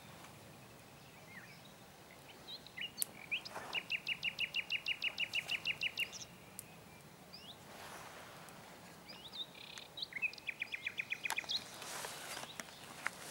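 A songbird singing two rapid trills of evenly repeated high notes, the first about two seconds long and a shorter one near the end, over a quiet outdoor background.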